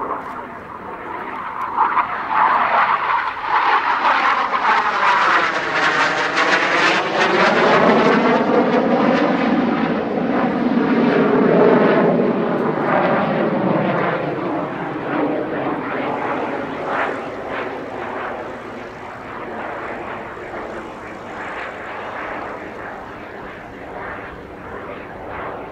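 BAe Hawk Mk 51 jet trainer, its Rolls-Royce Turbomeca Adour turbofan, flying past: the jet noise swells within the first couple of seconds, holds loud with a sweeping, phasing tone, then slowly fades away over the second half.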